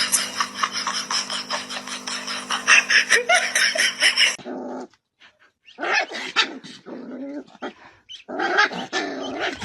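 A dog barking and growling, in short bursts broken by a pause about halfway.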